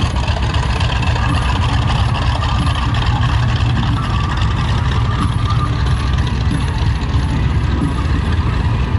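Grumman TBM-3 Avenger's large radial piston engine running steadily with a deep, dense rumble.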